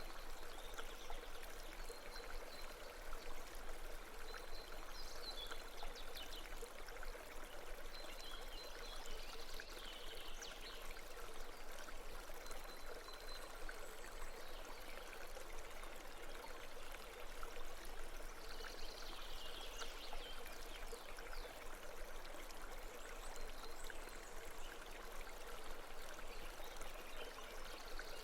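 A babbling brook, water running and trickling steadily over stones. A few short, faint high-pitched chirps sound above it now and then.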